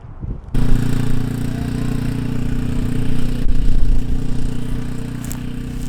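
Loud, steady mechanical drone: a low hum of several fixed pitches over a broad hiss, starting abruptly about half a second in and holding level without any rise or fall in pitch.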